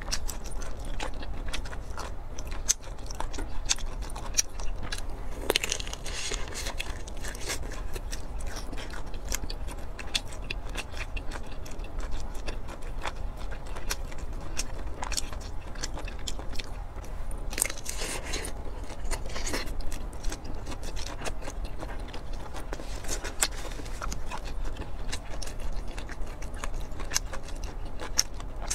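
Close-miked eating: chewing and biting of meat, with many sharp, wet mouth clicks and occasional short crunchy, noisier chewing spells.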